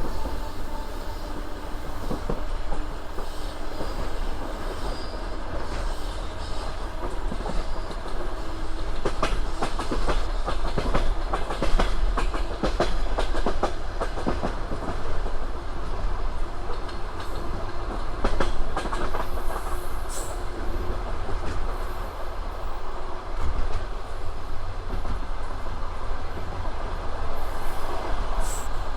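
Passenger train running, heard from on board: a steady rumble with the wheels clicking over rail joints. The clicks come thick and fast for several seconds in the middle.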